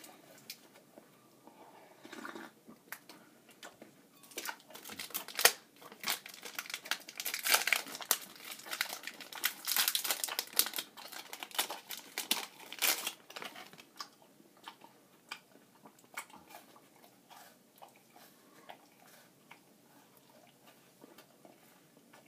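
Plastic wrapper of a Nature Valley dark chocolate granola bar being torn open and crinkled, in a dense crackling run for about ten seconds. Fainter, scattered crunches follow as the bar is bitten and chewed.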